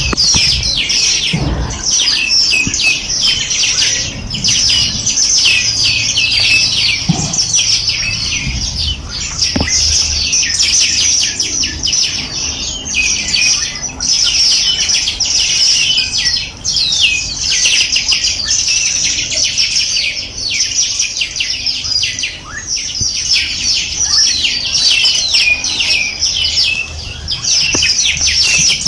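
A dense chorus of small birds chirping and trilling over one another without a break.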